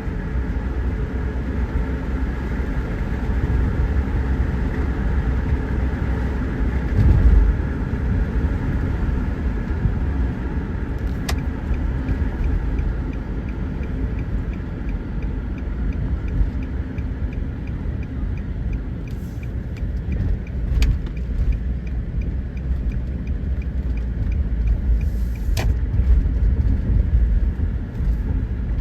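Car being driven, with engine and road noise heard from inside the cabin. The turn-signal indicator ticks steadily through the middle stretch, and there are a few sharp clicks.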